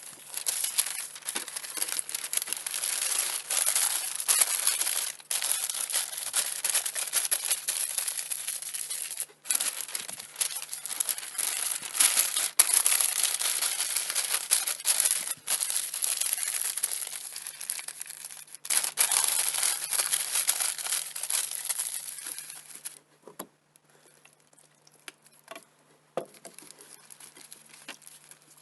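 Crinkling and crumpling of a wrapping material being handled, in long stretches with short breaks, likely sweet potatoes being wrapped for roasting. Near the end it drops to faint scattered clicks and rustles.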